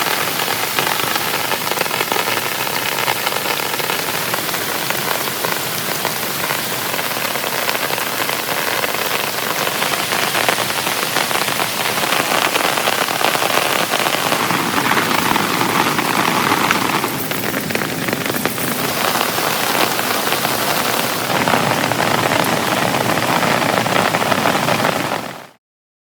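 Heavy rain falling steadily, a loud, dense hiss of drops. It cuts out abruptly just before the end.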